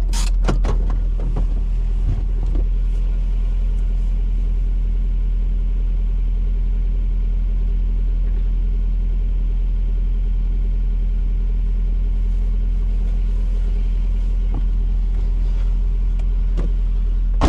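Steady low rumble of a car or truck running, heard from inside the cabin, with a few clicks and knocks in the first couple of seconds.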